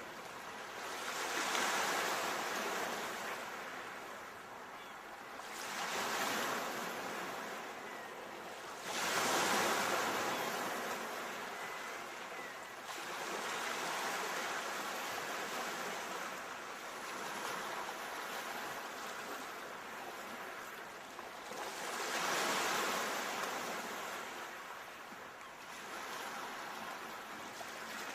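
Ocean waves surging and drawing back in swells every few seconds, the strongest one about nine seconds in.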